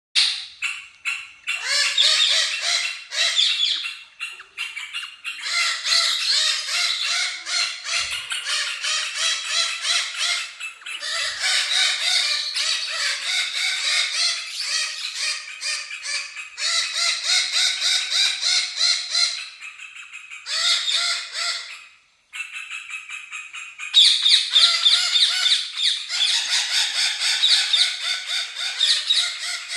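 Indian ringneck parakeets chattering and squawking in quick, continuous runs of repeated calls. The calls drop briefly about two-thirds of the way through and pick up louder again.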